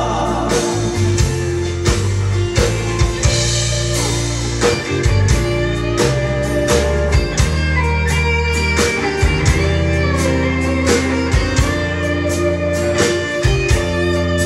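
Instrumental break of a gospel song played by a band: guitar lead over bass and a steady drum beat.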